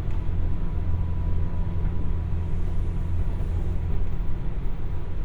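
Inside a JR West 201 series electric train's motor car, the running noise of the train under way: a steady low rumble from the wheels and running gear, with a faint steady whine above it.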